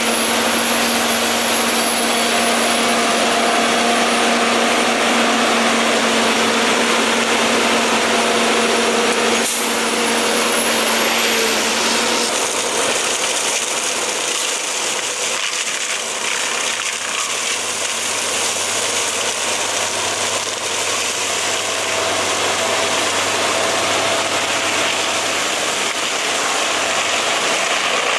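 Steady machine noise: a broad rushing sound with a few steady hums and a faint high whine that drifts up and down in pitch, changing character about twelve seconds in.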